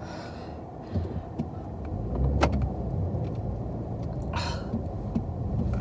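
Car engine running and building in revs as the car backs up, trying to get free of deep snow. A sharp click comes about two and a half seconds in and a short hiss a couple of seconds later.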